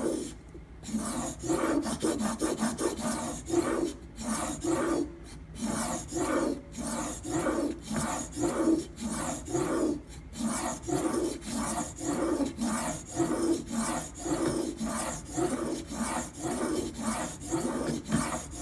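A steel kitchen-knife edge being ground on a sharpening stone in repeated scraping strokes, about two a second, with a few short pauses. This is grinding to raise a burr along the edge.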